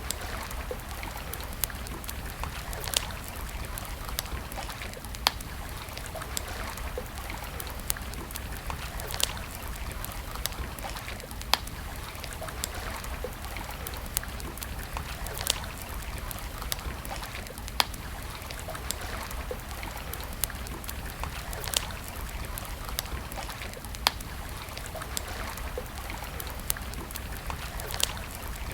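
Wood campfire crackling, with sharp irregular pops every second or two over a steady rushing hiss.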